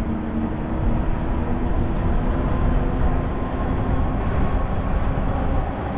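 Wind rushing over a GoPro's microphone while riding an e-bike, heavy in the lows. A faint steady hum sits underneath.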